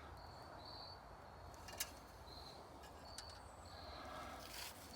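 Faint background of short high-pitched chirps repeating every half second or so over a low hum, with a couple of light clicks and a brief rustle near the end.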